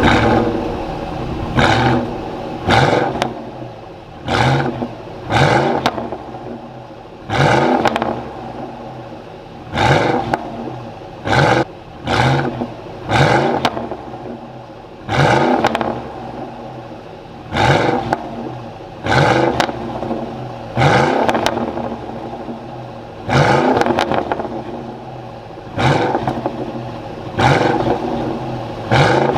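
A straight-piped Ford F-250 diesel and a Corsa-exhausted Ford Raptor revved with short, light throttle blips, about twenty in all, a second or two apart, each quickly rising and falling back to idle.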